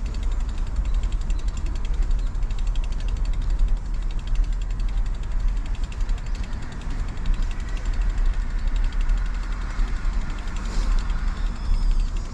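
Wind rumbling on the microphone while riding a road bike, with the rear freewheel ticking rapidly and steadily as the bike coasts.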